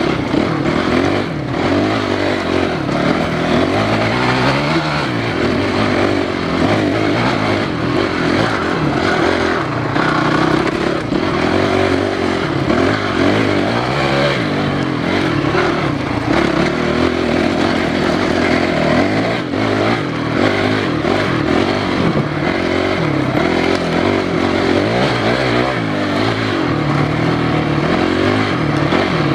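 Enduro dirt bike ridden hard along a faster trail section, its engine revs climbing and falling back again and again as the rider accelerates and shifts. The engine sound rides over a steady rough rattle.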